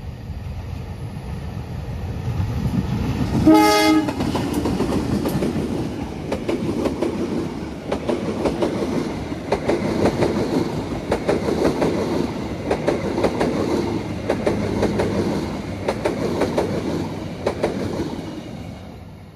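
Passenger train hauled by a CC 203 diesel-electric locomotive passing close by. The locomotive's engine grows louder as it approaches, and its horn gives one short blast about three and a half seconds in. The carriages then go past with a steady clatter of wheels over the rail joints, fading near the end.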